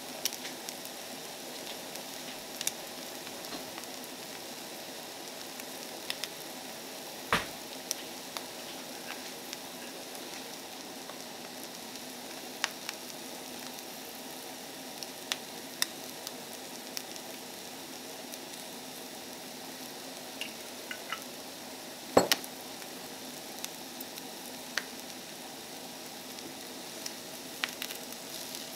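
Tomato, egg and rice sizzling steadily in a frying pan over a portable gas burner, with scattered sharp clicks and knocks, the loudest about two-thirds of the way through.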